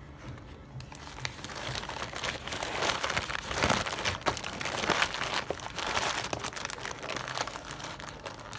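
Paper or plastic food wrapper being crinkled and crumpled by hand, a dense crackling that starts about a second in and fades near the end.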